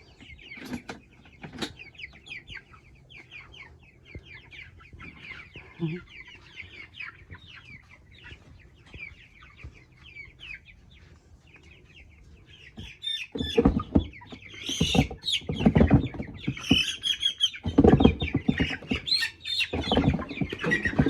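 A flock of young broiler meat chicks peeping continuously. From about 13 seconds in, loud rustling and knocking joins the peeping as the chicks are handled and moved.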